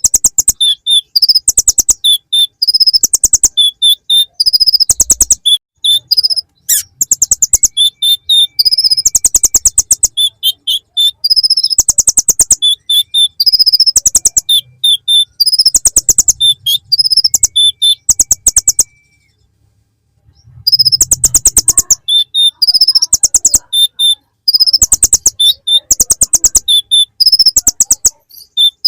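Kolibri ninja sunbird singing a fast, dense trilling song packed with imitated ciblek (bar-winged prinia) phrases: rapid rattling trills alternating with high chirps. The song breaks off briefly about two-thirds of the way through, then resumes.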